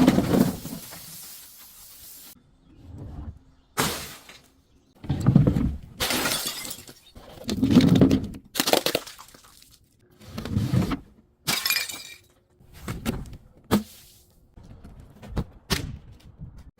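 Glass bottles breaking and being crushed: a series of separate shattering crunches, about a dozen, coming irregularly with short pauses between.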